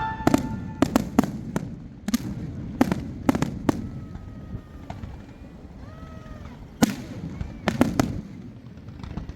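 A rapid, irregular series of sharp cracks and pops over a low rumble, loudest about seven and eight seconds in.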